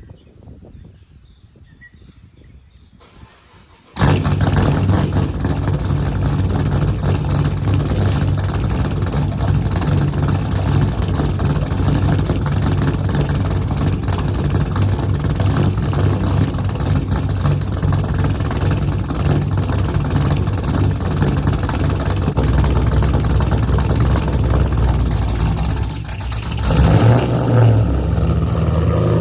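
Chevrolet Camaro engine cold-started about four seconds in, catching at once and settling into a steady idle, with a brief louder rise near the end. The idle is one the owner finds sounding off, rougher than usual.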